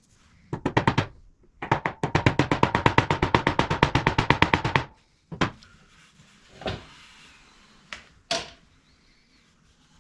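Rapid, even metallic clicking from a workshop tool during motorcycle rear suspension work: a short burst, then about three seconds at roughly ten clicks a second with a ringing tone under it, followed by a few separate knocks.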